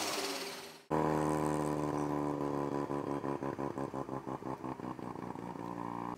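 Mazda RX-7 FD's engine idling at a steady pitch with a lumpy, pulsing beat of about four pulses a second. It starts abruptly about a second in, after a fading engine note breaks off.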